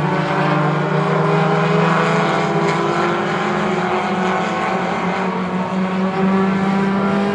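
A field of four-cylinder Lightning 4 stock cars racing on a short oval, several engines running at once in a steady, loud drone with small rises and falls in pitch.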